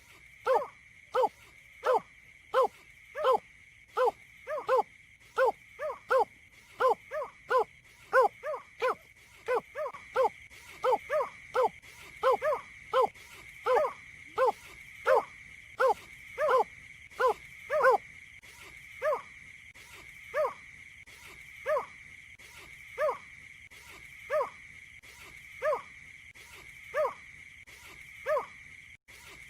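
A bird calling a long series of short, low, hollow notes, about one and a half a second at first, slowing to about one every second and a half after some 18 seconds. A steady high whine runs underneath.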